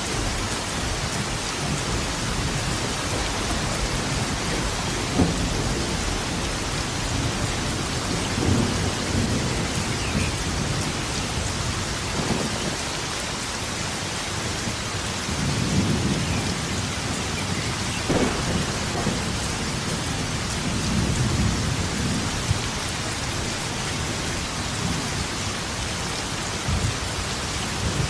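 Heavy steady rain with rolling thunder: low rumbles swell up several times, a few of them with a sharp crack, over the constant hiss of the rain.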